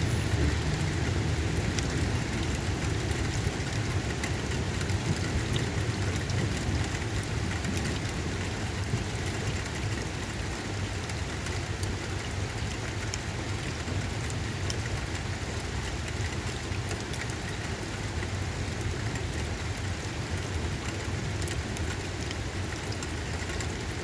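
Steady rain falling during a thunderstorm, a continuous hiss with many scattered drop ticks and a low rumbling undertone, easing slightly toward the end.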